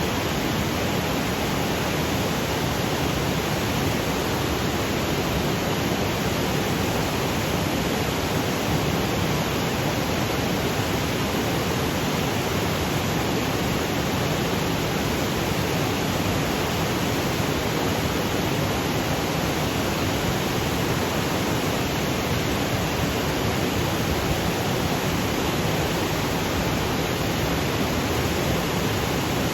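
Waterfall cascading over granite boulders, a steady, even rush of water.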